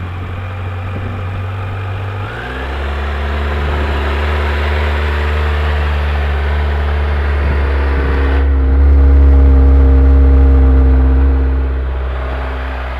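A new Kawasaki motorcycle engine idling just after starting. About two seconds in its note drops lower and fuller, and it gets louder for a few seconds near the end.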